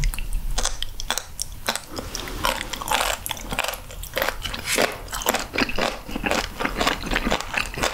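Close-miked chewing of raw sturgeon sashimi, with many quick, irregular crunches from the firm, cartilage-rich flesh.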